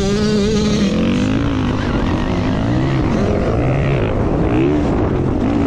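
Dirt bike being ridden on a track, its motor pitch rising and falling repeatedly with the throttle, under heavy wind noise.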